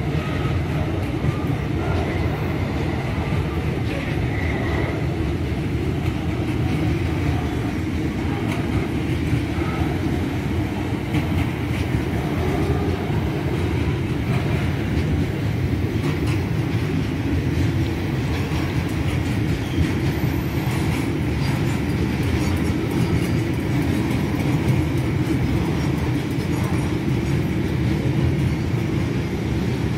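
Freight train of tank cars rolling past on the rails, a steady rumble of steel wheels with some clickety-clack.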